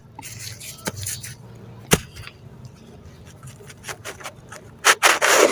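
Pieces of gritty sand-cement being crumbled by hand. A gritty crackle at first, a sharp snap about two seconds in, small crackles, then a loud crunchy burst near the end.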